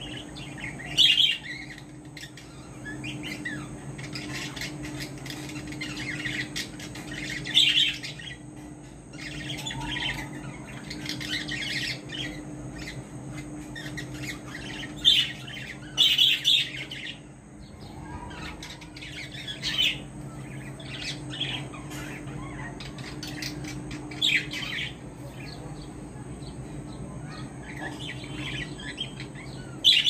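Caged birds chirping in short, bright bursts every few seconds, over a steady low hum.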